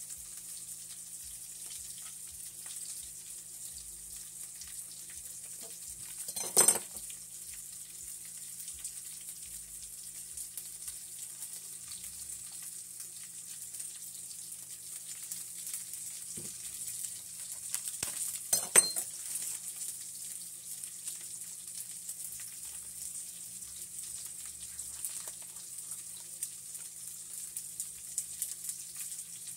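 Steady crackling sizzle of food frying in a pan, with two sharp clinks as a seasoning container is handled over a stainless steel bowl, about 7 and 19 seconds in.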